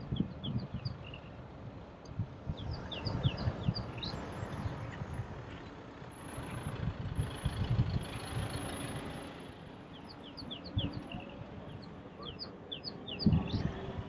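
Bird calls in quick runs of short, falling whistled notes, several times, over wind rumbling on the microphone. A vehicle passes close by about midway.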